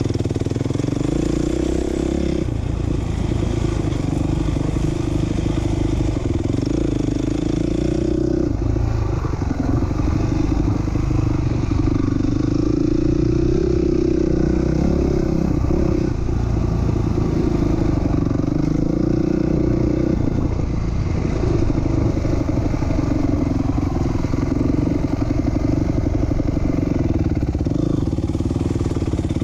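2007 Honda CRF450R single-cylinder four-stroke motocross engine running hard during a lap. The revs rise and fall as the throttle is rolled on and off, with brief drops about 2.5, 8.5, 16 and 20 seconds in.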